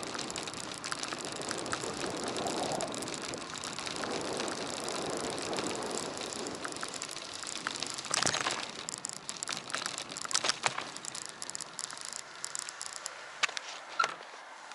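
Bicycle ride picked up by an action camera: a steady rush of wind and road noise with rattling, a louder rush about eight seconds in, then the noise thins out, leaving scattered sharp clicks and rattles.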